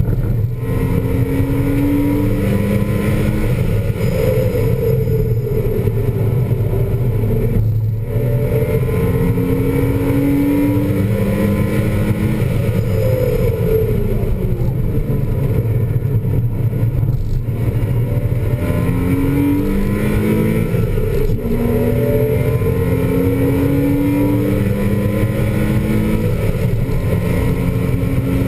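A 2000 Porsche Boxster S's 3.2-litre flat-six engine is working hard at track speed, heard from inside the cabin. Its note climbs and drops back again and again as the car accelerates and changes gear, with brief breaks about a third and two-thirds of the way in.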